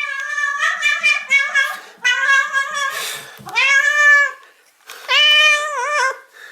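A cat meowing repeatedly. A quick string of short meows is followed by two long, drawn-out meows, the last wavering in pitch.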